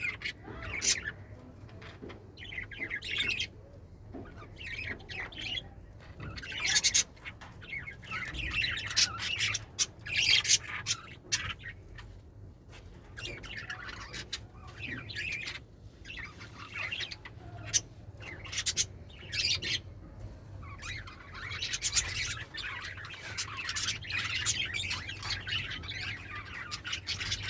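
Pet budgerigars chirping and chattering in irregular bursts, becoming near-continuous chatter in the last several seconds, over a steady low hum.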